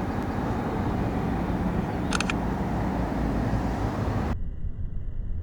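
Airplane engine noise: a steady, loud rumble, with a brief run of short beeps about two seconds in. Most of the hiss cuts off abruptly near the end, leaving the low rumble.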